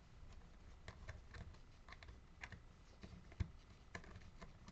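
Faint, irregular clicks and light taps of small hard parts being handled, as a Dremel rotary tool's attachment is fiddled with and fitted by hand; one tap about three and a half seconds in is a little louder.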